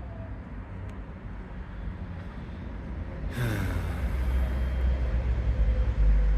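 A heavy road vehicle rumbling past, growing louder, with a sudden hiss about three seconds in.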